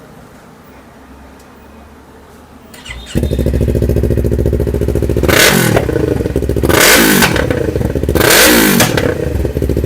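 Yamaha R3's parallel-twin engine on a Devil Evolution full-system exhaust with the dB killer removed, started for the first time. The starter turns briefly and the engine catches about three seconds in and idles loud. It is then revved three times, each rev rising and falling back.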